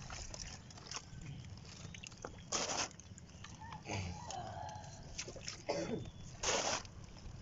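Shallow seawater splashing and sloshing as a stick prods among rocks and sea urchins. Two short, louder splashes come about two and a half and six and a half seconds in.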